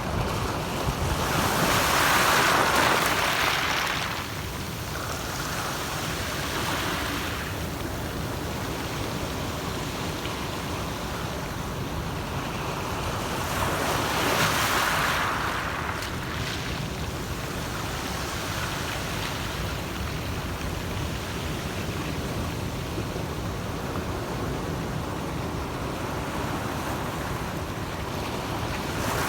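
Ocean waves breaking: two louder surges of surf about twelve seconds apart over a steady low wash of water.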